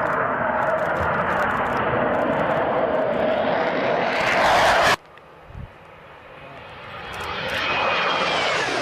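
Fighter jets making low passes. First, loud jet engine noise that swells and then cuts off abruptly about five seconds in. Then a second jet approaches, its noise building, with a high turbine whine that falls in pitch as it goes by.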